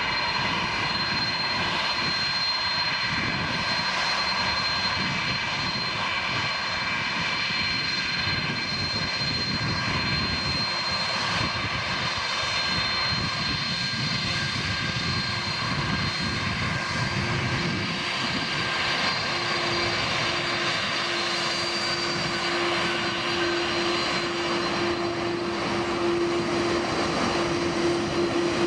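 Airbus A330-200 twin turbofan jet engines running at taxi power: a steady jet rush with a high-pitched whine. A lower hum comes in past the middle and grows stronger toward the end.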